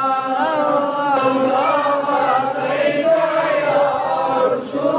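Islamic devotional chanting in long, drawn-out notes that glide between pitches, with a short break about four and a half seconds in.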